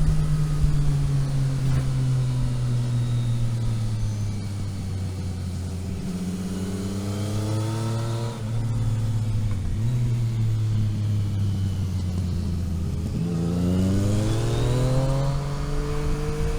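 A vehicle's engine running under way. Revs sag for the first few seconds, then climb until a gear change a little past eight seconds. They settle, then rise steeply again in the last few seconds as it accelerates hard.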